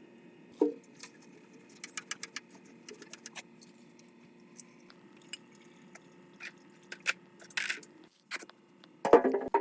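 Small metal parts and tools clinking, tapping and clicking against each other as a rusted generator is worked on by hand, with a louder metallic clatter near the end.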